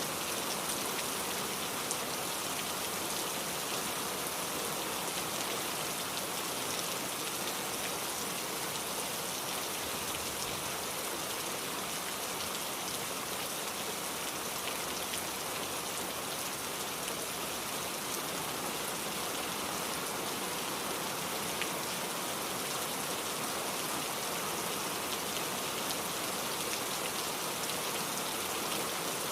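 Steady rainfall, an even hiss of rain with scattered individual drops landing on a surface.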